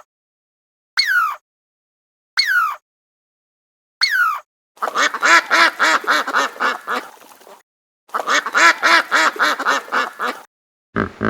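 Duck quacking: three single quacks, each falling in pitch, about a second and a half apart, then two rapid runs of quacks of about two and a half seconds each that trail off softer at the end.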